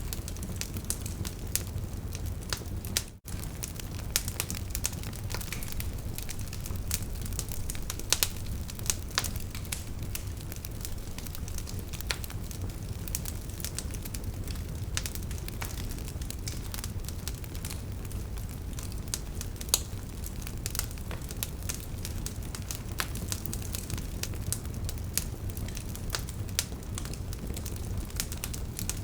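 Wood fire crackling: frequent sharp pops and snaps from burning logs over a steady low rumble of flames. There is a brief dropout about three seconds in.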